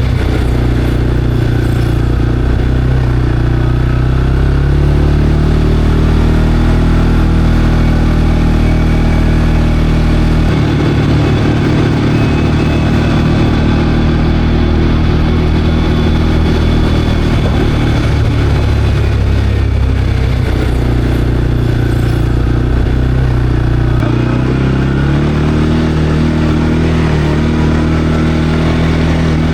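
CFMOTO CForce 520L ATV's single-cylinder engine running steadily as the quad rides along, its pitch rising about a second in and again near the end as it speeds up.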